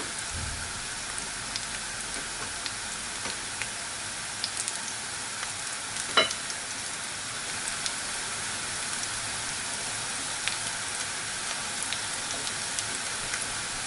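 Green plantain pieces shallow-frying in oil in a frying pan over a turned-up flame: a steady sizzle with scattered small pops and crackles. There is one sharper click about six seconds in.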